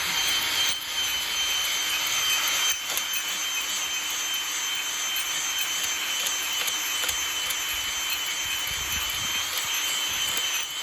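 Electric drill spinning a cylinder hone inside the chrome-plated cylinder bore of a Lister CS engine, running steadily with a high whine over a scraping hiss: a light, slow honing pass over the bore.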